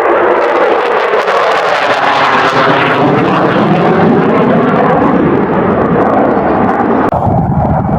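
USAF Thunderbirds F-16 fighter jet flying past low overhead: loud, continuous jet engine noise whose pitch falls as it goes by. About seven seconds in, the higher part of the sound drops away suddenly, leaving a lower rumble.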